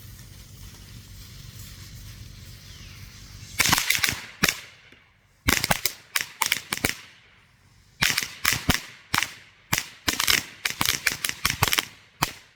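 A 50-cracker string of El Toro firecrackers going off: a rapid, irregular crackle of sharp bangs in clusters, starting about three and a half seconds in after a faint steady hiss.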